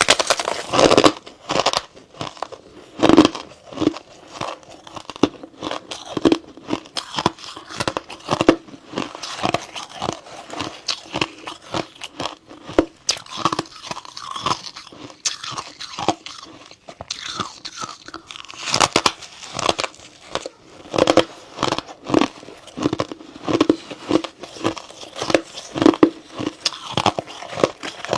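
Close-miked biting and chewing of freezer frost: crisp, crackly crunches that come again and again, with a louder bite about three seconds in and a steady run of chews in the second half.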